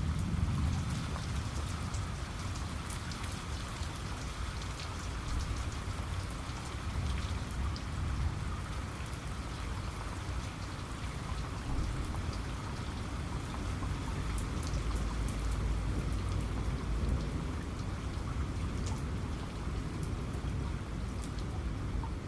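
Steady rain falling, with a continuous hiss and many individual drops ticking. A low rumble runs underneath and is strongest at the very start.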